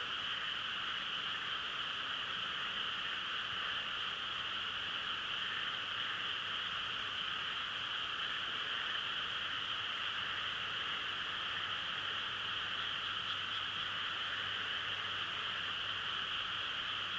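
Steady, unbroken chorus of many frogs calling together, a dense high-pitched drone with no single call standing out.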